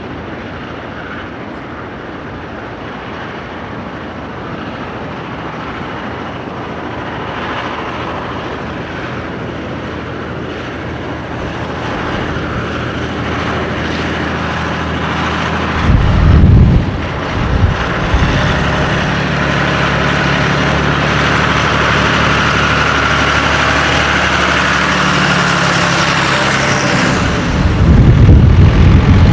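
Tractor engines running as tractors drive past on the road. The engine noise builds steadily, with two loud low rumbles, one about halfway through and one near the end.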